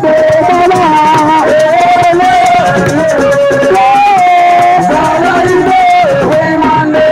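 Live Senegalese assiko band music: a voice sings long held, gliding notes over dense shaker and drum percussion.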